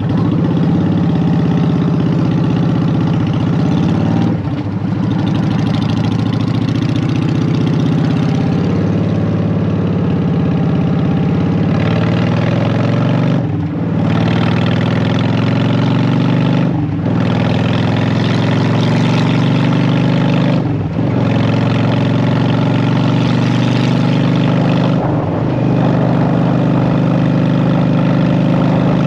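Honda Shadow VT750's V-twin through Vance & Hines Short Shot pipes, running under way. Five brief breaks in the sound, as gear changes, are each followed by the engine pitch climbing again.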